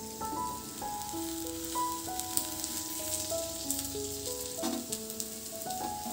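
Egg and Maggi noodle omelette sizzling in oil in a frying pan, a steady hiss with small crackles, under a simple background melody of held notes.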